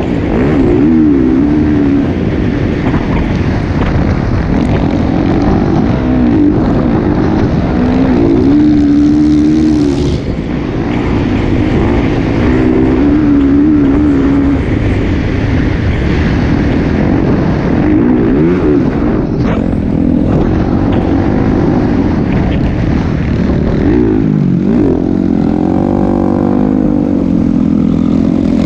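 Motocross bike engine running loud, its pitch rising and falling again and again as the throttle is worked, over a dense low rumble.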